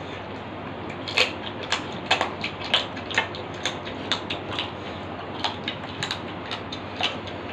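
Close-up eating sounds: people chewing roti and chicken curry with open-mouthed lip smacks, a run of sharp, irregular clicks and smacks starting about a second in.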